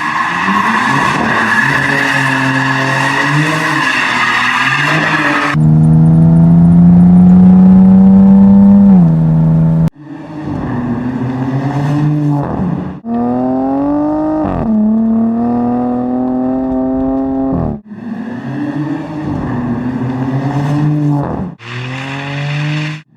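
A performance car's engine revving and accelerating in a run of short edited clips: its pitch climbs, holds and drops, and the sound cuts off abruptly several times. The loudest part is a sustained high-rev run a few seconds in.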